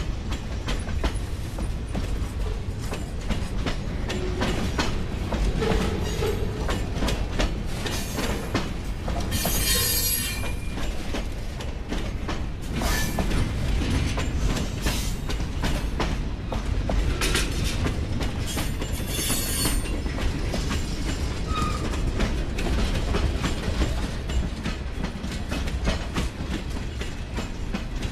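Freight train of boxcars and tank cars rolling past at close range: a steady low rumble of steel wheels on rail with clicking over the rail joints. Two brief high-pitched squeals from the wheels stand out, about ten seconds in and again a little past the middle.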